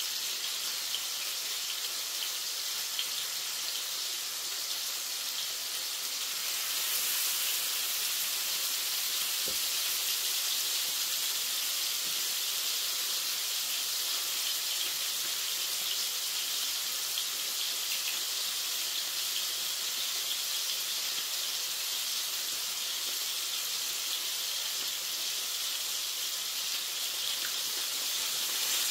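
Minced lamb kebab patties sizzling in oil in a frying pan: a steady frying hiss that grows a little louder about seven seconds in.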